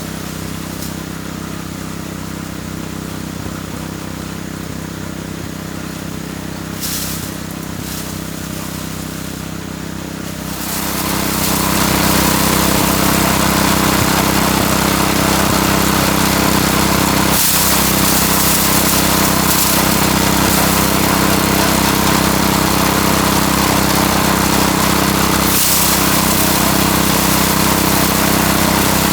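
Small engine running steadily, then growing louder with added rushing noise from about eleven seconds in, as if taking on load.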